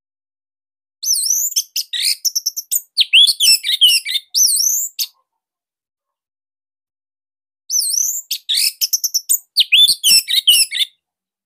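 Orange-headed thrush (anis merah) singing in two bursts of about three to four seconds each, separated by a pause. Each burst is a rapid string of varied, high whistled phrases with quick up-and-down sweeps.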